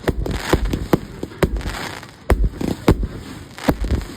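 Fireworks going off, a run of sharp bangs and pops at uneven intervals with low rumbling between them.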